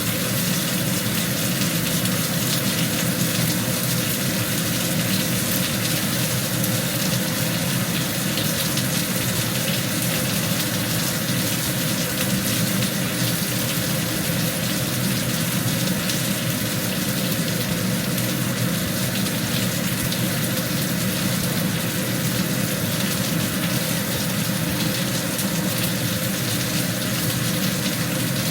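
Beef short ribs frying in hot oil: a steady sizzle and bubbling that runs without a break.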